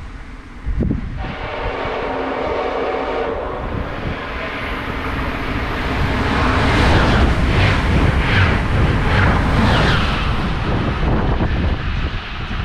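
A train horn sounds a steady blast about a second in. The train then passes loudly for several seconds before fading.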